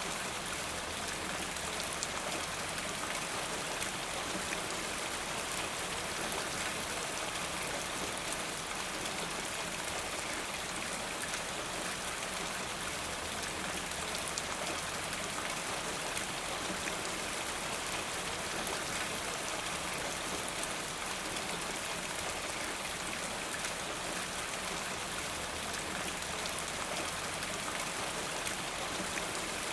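Steady rain falling, a dense even patter of drops that holds at the same level throughout.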